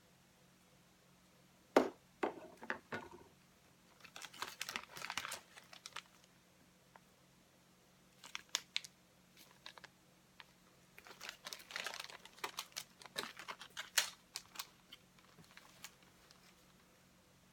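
Handling noises: a sharp click or knock about two seconds in, then scattered clicks, knocks and crinkly rustling in several bursts. No saw motor is running.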